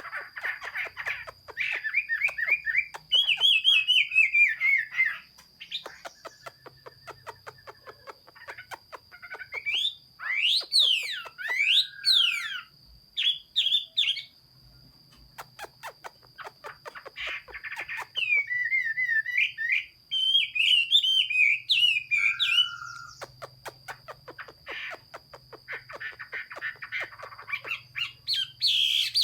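Chinese hwamei (hoa mi) singing: loud varied phrases of whistled notes sliding up and down, broken up by fast runs of dry clicking notes, with short pauses between phrases. A faint steady high tone runs underneath.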